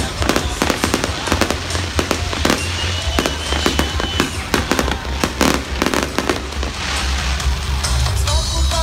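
Fireworks display: a rapid, irregular string of bangs and crackles from bursting aerial shells over music with a steady bass. A thin high whistle is heard for about a second and a half near the middle.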